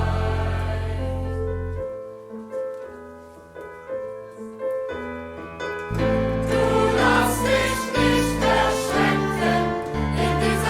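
Live choir singing with a band of strings, guitar, bass, keyboards and percussion. About two seconds in the music drops to a sparse, quieter passage, and the full ensemble comes back in about six seconds in.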